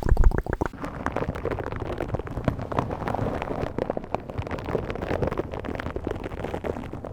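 A ball worked right against the microphone, giving a muffled, dense crackling and popping that sounds like being under water, after a few heavy low thumps in the first second.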